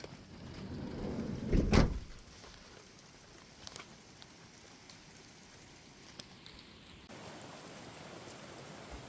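Rain falling on a campsite, with scattered drip ticks. A loud low rumbling thump swells and peaks about a second and a half in. About seven seconds in, the rain hiss suddenly steps up louder and steadier.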